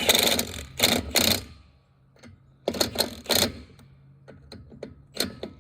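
A power tool rattling in short bursts, four or five times, with pauses between.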